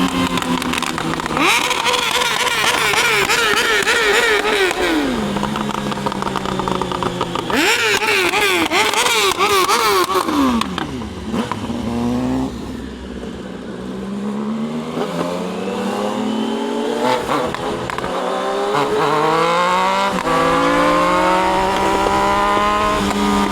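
Triumph Daytona 660's three-cylinder engine under riding load. It rises and falls in pitch twice as the bike speeds up and slows, then climbs steadily through the gears, with short drops in pitch at each upshift near the end.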